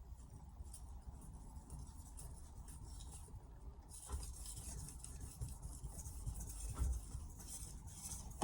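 Faint repeated scraping of a carbon-steel knife blade stroked back and forth on a splash-and-go whetstone, a little louder and denser from about halfway through. The stone is cutting fast and lifting steel right away.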